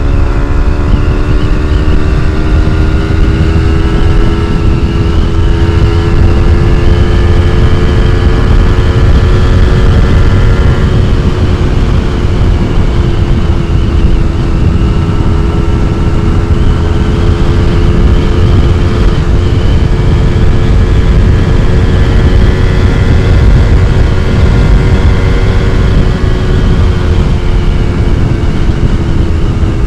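Yamaha MT-25's parallel-twin engine breathing through an R9 aftermarket exhaust, pulling steadily while riding. Its pitch climbs slowly over the first ten seconds, holds, then eases a little near the end, over a heavy low rumble of wind on the microphone.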